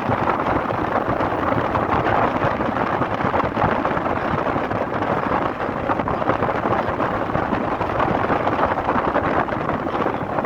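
Steady rush of wind and road noise from a car moving at speed, an even roar with no breaks.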